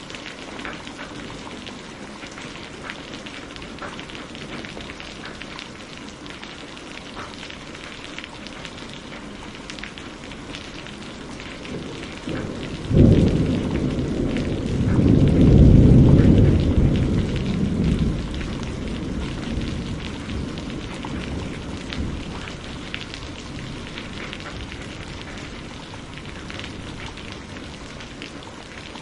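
Steady rain falling, with fine drop ticks. About halfway through, a thunderclap cracks suddenly and rolls on, growing deeper for a few seconds before fading back under the rain.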